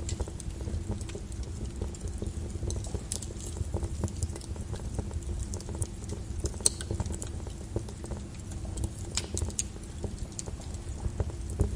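Flowing lava crackling: a steady low rumble under dense, irregular small crackles and scattered sharp ticks.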